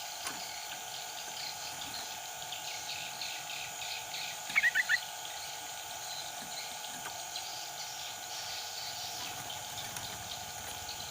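Yellow-vented bulbul giving one short burst of four quick notes about four and a half seconds in, over a steady background of insects.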